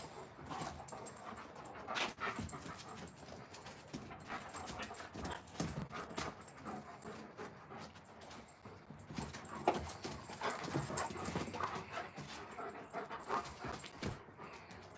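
Alaskan malamute dogs making low sounds, with scattered soft knocks and taps.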